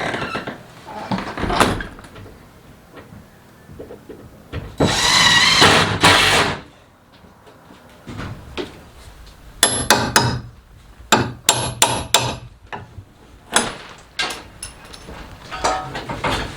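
Workshop knocks and clatter of tools and wood, with a harsh noise of about a second and a half a little after five seconds in, then clusters of sharp knocks and clicks.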